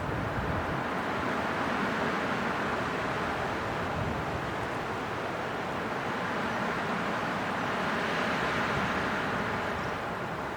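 Strong winter wind blowing steadily, in a noise that swells a little and eases off again in slow gusts.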